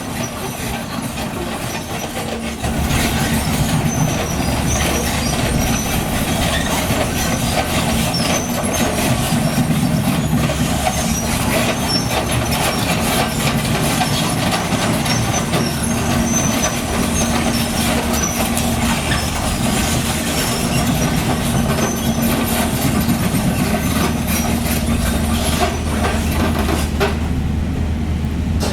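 Heavy construction machinery working: a diesel engine runs steadily under load and gets louder about three seconds in, with scattered faint high squeaks over the top.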